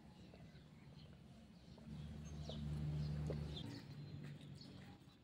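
Small birds chirping faintly in short repeated calls, while a low steady hum swells about two seconds in and fades away again about two seconds later.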